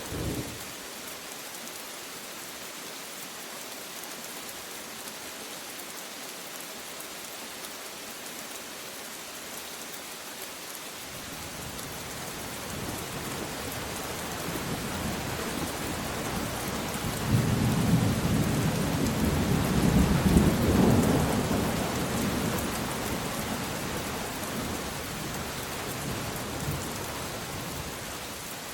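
Steady rain falling, with a long roll of thunder that builds from about a third of the way in, is loudest past the middle and slowly dies away.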